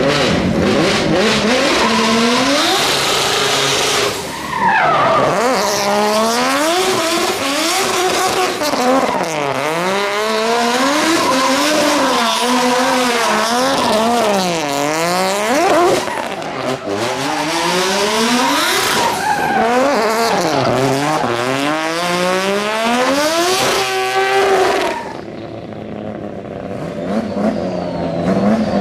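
Racing car engine revving hard up and down over and over, its pitch swooping every second or two, with tyres squealing and skidding, as in drifting. Near the end the tyre noise stops and the engine runs quieter, its note rising slowly.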